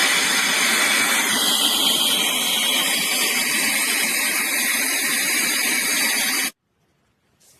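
K&F Concept BS400 cordless air duster and vacuum running steadily: a loud rush of air with a high motor whine that shifts in pitch now and then. It stops abruptly about six and a half seconds in.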